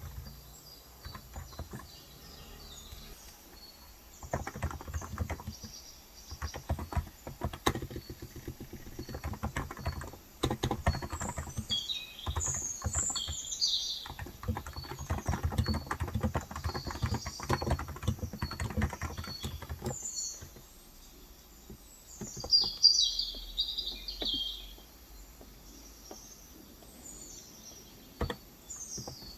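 Typing on a COX Endeavor electro-capacitive 35 g tenkeyless keyboard: a steady run of keystrokes from about four seconds in to about twenty seconds, then only a few strokes. Birds chirp over it, in bursts near the middle and again a couple of seconds after the typing stops.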